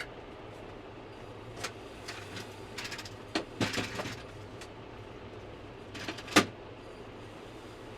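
Tractor engine running at a steady idle, with a series of short clunks and rattles and one loud knock about six seconds in.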